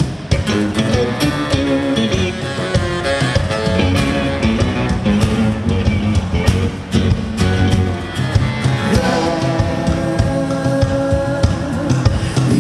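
Live rock band playing an instrumental passage: electric guitars over drum hits.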